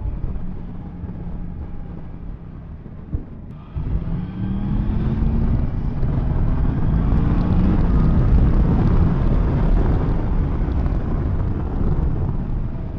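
Yamaha MT-10 SP's crossplane inline-four engine heard from the rider's seat with wind rushing over the microphone: running gently at first, then about four seconds in the throttle opens and the engine revs rise as the bike accelerates, the wind noise growing with speed before easing off near the end.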